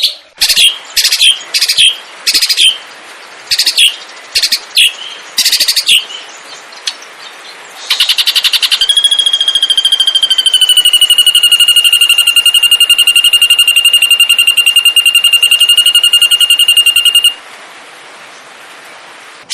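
Songbird from an Indonesian masteran song compilation: a string of short, harsh rattling notes, then a long rapidly trilled note held for about eight seconds that stops abruptly.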